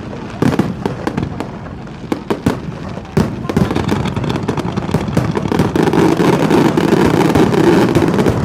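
Aerial fireworks display with repeated bangs. About three seconds in, the bangs thicken into a dense, continuous barrage of overlapping bursts that grows louder.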